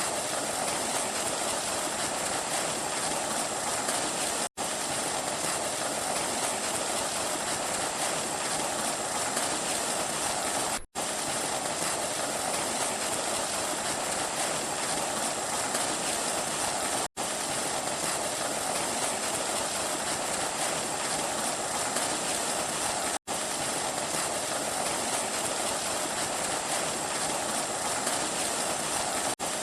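Steady rushing noise of a miniature water pump running and water flowing. The sound drops out briefly four times, at regular intervals of about six seconds.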